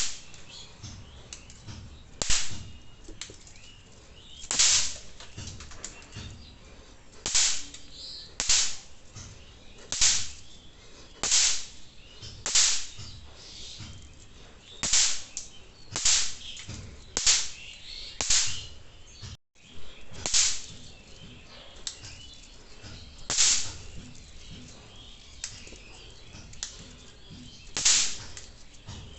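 Snap pops (bang snaps) thrown down one at a time, each bursting on impact with a sharp crack. There are about fifteen cracks, one every second or two, with a few longer pauses.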